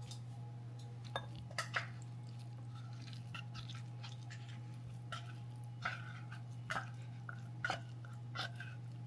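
Irregular light clicks and taps, roughly one a second, over a steady low hum.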